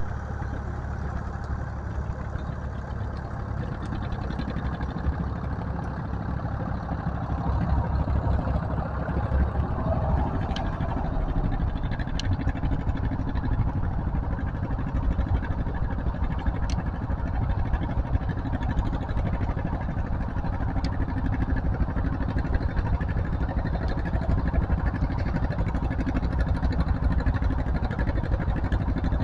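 Farm tractor engine running steadily, getting a little louder about a quarter of the way in.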